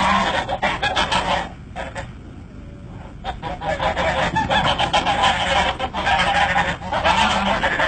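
A flock of birds honking, many calls overlapping, quieter for a stretch from about one and a half to three seconds in.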